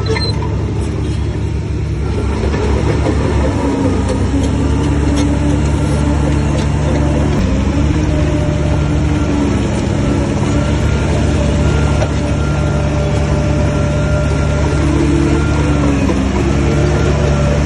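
Diesel engine of heavy earthmoving machinery running under load, a steady low drone whose pitch rises and falls a little several times and dips briefly near the end.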